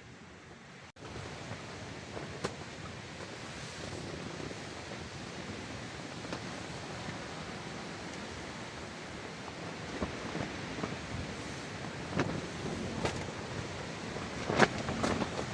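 Wind blowing steadily as a noisy rush. It grows louder about a second in, and a few sharp knocks or rustles come in the last few seconds.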